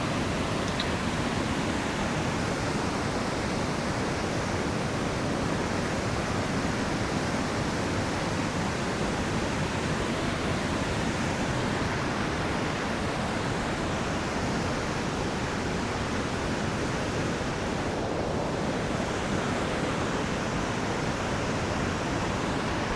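River water rushing steadily over rocks, a continuous even rush with no letup.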